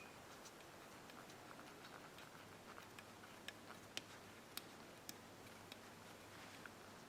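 Near silence with a few faint, sharp clicks at uneven intervals, most of them in the middle few seconds.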